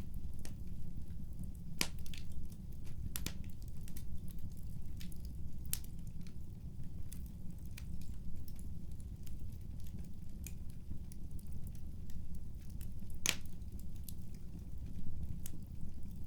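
Wood fire crackling in a fireplace: scattered sharp pops over a steady low rumble, with the loudest pop about thirteen seconds in.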